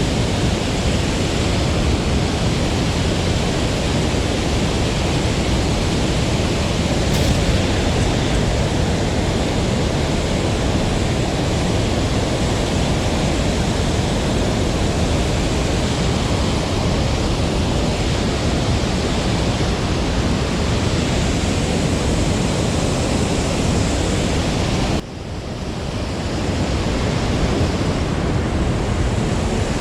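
Steady rush of a mountain stream's running water. About 25 seconds in the level drops suddenly, then builds back up.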